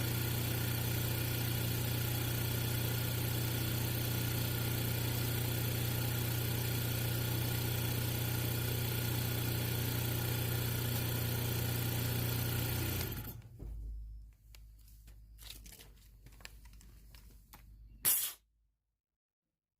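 A motor running steadily with a strong low hum, cutting off about 13 seconds in. A few faint clicks follow, then one sharp click near the end.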